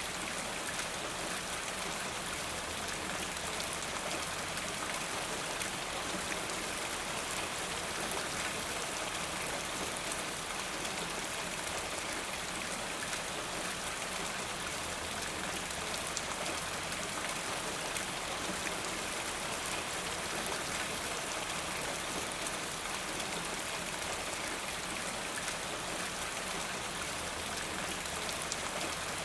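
Steady rain falling, an even hiss with fine pattering drops and no breaks.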